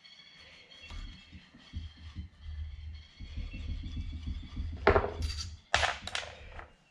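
Small metal parts being handled and shifted about on a workbench, with a low rumble of handling and then a few sharp metallic clinks near the end.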